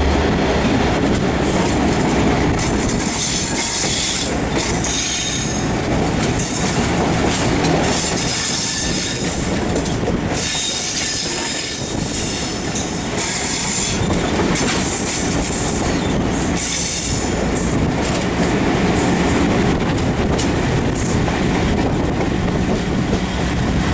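Class 57 diesel locomotive hauling Mark 3 coaches at speed, heard from an open coach window: steady wheel-and-rail rumble with clattering over rail joints and repeated high-pitched wheel squeal that comes and goes.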